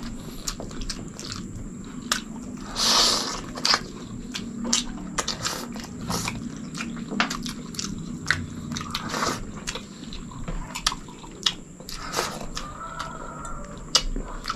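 Close-up mouth sounds of people eating chicken in sour soup with rice: chewing and lip smacks with many small clicks. A louder half-second noise comes about three seconds in.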